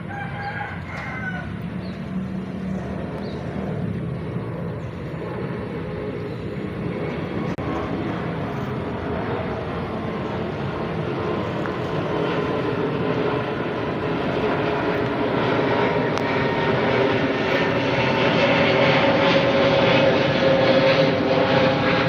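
Airplane engine noise from a fixed-wing aircraft in flight, a steady rushing drone that grows gradually louder as the plane approaches.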